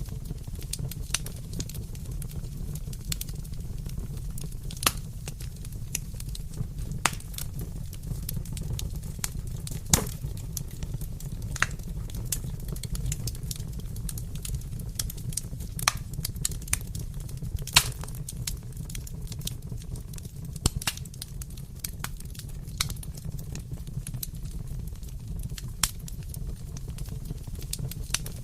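Wood fire crackling in a fireplace: a steady low rumble of flames with irregular sharp pops and snaps, a few of them louder.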